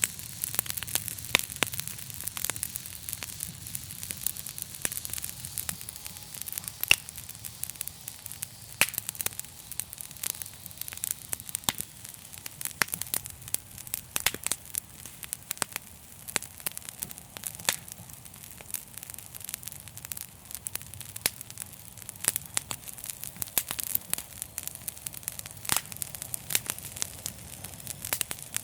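Wood fire crackling in a fireplace: irregular sharp pops and snaps, a few louder than the rest, over a steady hiss and a low rumble.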